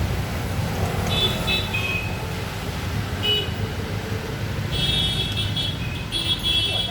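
Steady low traffic rumble, with short high-pitched toots about a second in and again, repeatedly, from about five seconds in.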